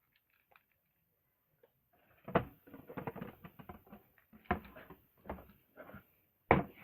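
Hard plastic toy truck being handled: a string of sharp clicks, knocks and clatters from its parts, starting about two seconds in after a near-silent start, the loudest knocks near the start of the run and near the end.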